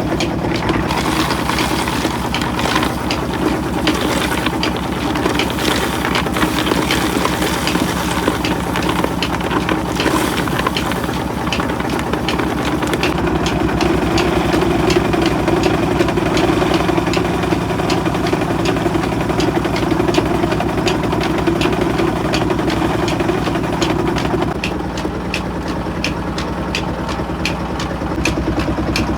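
Rock-salt crushing and grinding machinery running steadily, an engine-like hum with a fast, regular knocking. The tone changes about halfway through and again near the end.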